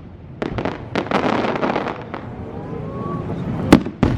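Aerial fireworks going off: a few sharp bursts, then about a second of dense crackling, and one loud bang near the end.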